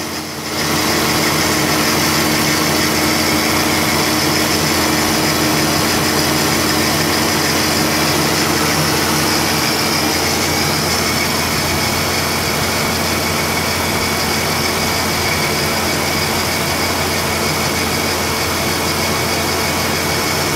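Holden Statesman's 5.7-litre LS1 V8 idling steadily.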